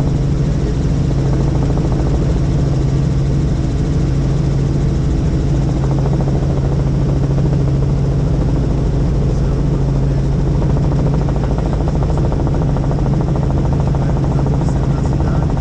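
Helicopter in flight: the steady, unbroken drone of its rotor and turbine, holding one pitch.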